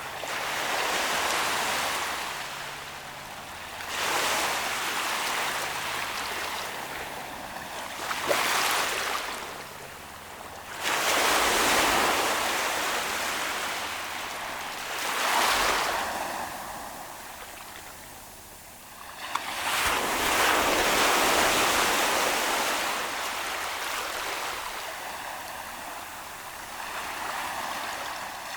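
Ocean waves breaking and washing up the shore, one after another. There are about seven surges of rushing surf, each swelling and then draining away, the strongest around twelve and twenty-one seconds in.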